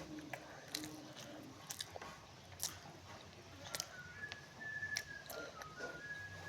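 Close-up eating sounds: chewing and biting, with irregular wet clicks and crunches. From about four seconds in, a high thin whistle comes in as short held notes stepping up and down.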